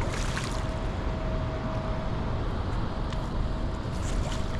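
Wind rumbling on the microphone with a faint steady hum beneath it, and a few short scuffing noises right at the start and again near the end.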